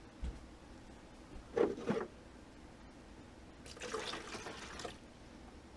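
Kenmore single-serve pod coffee maker brewing, with liquid running and gurgling into the cup. Two louder sharp knocks come about a second and a half in.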